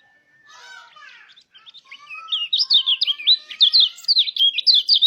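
White-eye (pleci) singing: after some faint chirps, a loud, fast run of sharp falling chirps, about three or four a second, starts about two seconds in.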